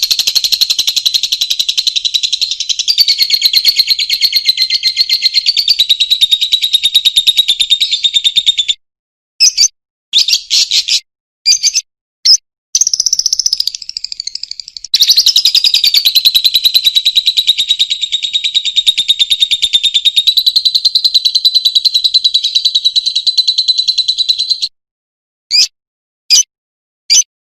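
Lovebird's long, very rapid chattering trill (the 'ngekek'), two runs of about nine seconds each, with a cluster of short calls between them and a few separate short chirps near the end.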